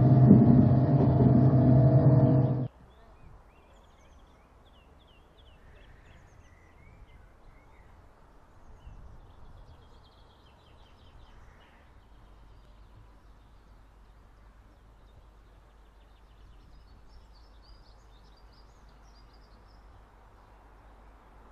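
Passenger train running, heard from inside the carriage: a loud steady hum with several held tones that cuts off abruptly about three seconds in. Then a faint outdoor hush with small birds chirping now and then.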